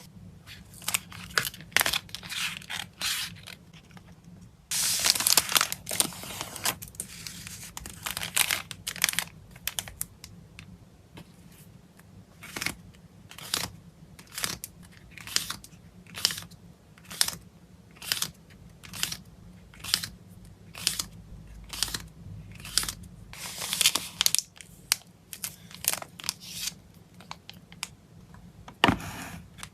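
Plastic and paper packaging being handled close up: crinkling, rustling and tearing in short snaps, with a longer run of crinkling about five seconds in, then a steady series of short crinkles about one and a half a second.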